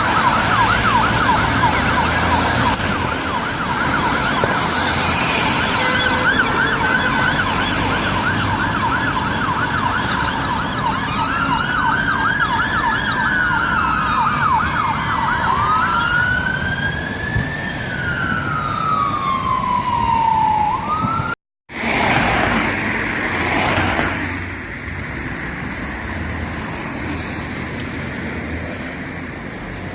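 Fire engine's electronic siren on a turnout: a fast yelp, changing to a slow rising and falling wail about a third of the way in. About two-thirds in the sound cuts out briefly, then one falling siren sweep and engine and road noise take over.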